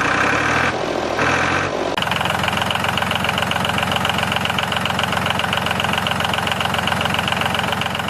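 Small motor of a DIY mini toy tractor running with a fast, even whirring chatter. It is choppy at first and settles into a steady run about two seconds in.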